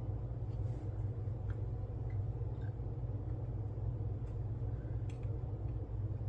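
Steady low background hum with a few faint, scattered clicks and taps of small hobby tools and foil being handled on a workbench.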